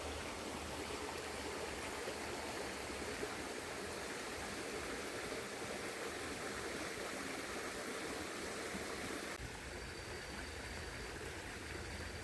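Shallow river water running over rocks, a steady rush. The sound changes abruptly about nine seconds in.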